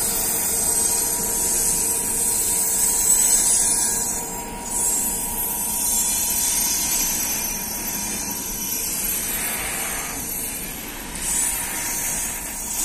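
Freight train's container flat wagons rolling past close by: a steady rush of wheels on rail with a strong high hiss and a faint steady whine underneath.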